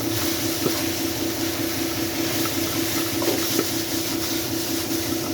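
Chicken and broccoli stir-fry cooking in a pan, giving a steady hiss with a few faint knocks, over a steady low hum.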